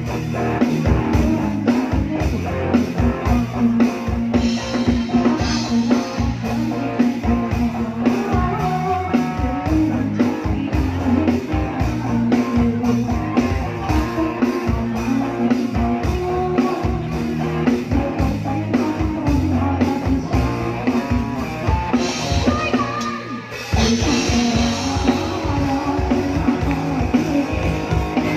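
Live band music with drum kit and guitar, played loud and steady. There is a short drop in level a little before the end, then the full band comes back in at once.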